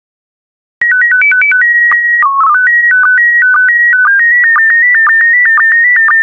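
Slow-scan TV (SSTV) transmission in PD120 mode starting about a second in: short beeps stepping between a few pitches, a steady leader tone, a brief low dip for the mode code, then the scan-line tones of the image. These fast-warbling tones carry the picture and are broken by regular short sync pulses.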